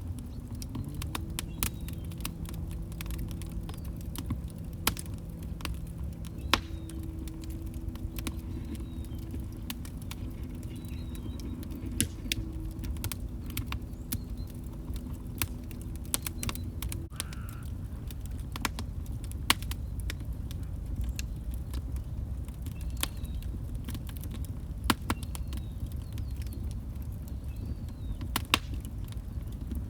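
Log fire crackling, with frequent sharp irregular pops and snaps over a low rumble of burning wood. A faint steady low tone runs through the first half and stops about seventeen seconds in.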